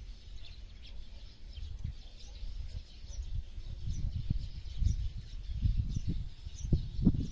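Small birds chirping faintly in short high calls, over a louder irregular low rumble that swells and fades, strongest near the end.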